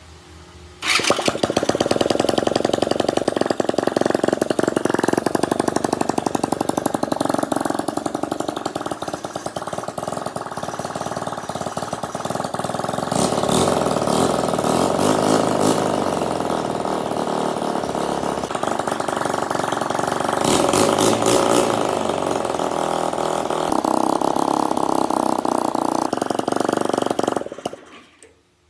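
A small engine starts about a second in and runs with rapid firing, its speed rising and falling several times, then stops shortly before the end.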